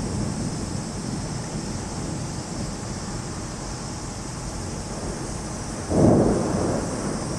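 Torrential cloudburst rain hissing steadily, with a sudden low rumble of thunder about six seconds in that fades over a second or so.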